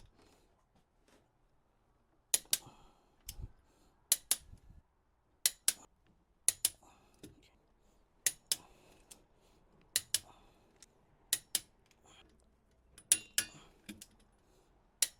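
Torque wrench clicking as it reaches the set torque of 70 foot-pounds on each cylinder head bolt. The sharp clicks come mostly in close pairs, one bolt after another, about every one and a half seconds.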